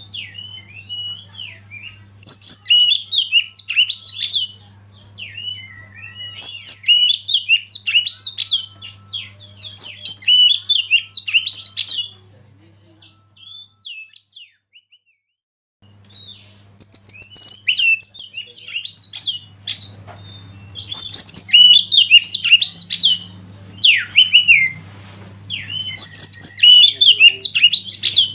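Oriental magpie-robin (kacer) singing a fast, varied song of chirps, trills and whistles in bursts, with a pause of a few seconds about midway. A faint steady low hum lies under it.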